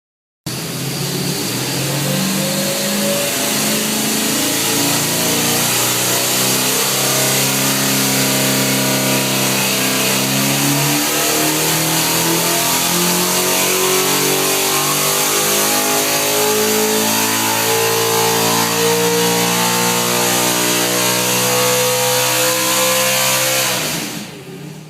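Small-block Chevrolet V8 race engine running hard on an engine dynamometer. It is loud and steady, its pitch creeping slowly upward over about twenty seconds, then it drops away quickly near the end.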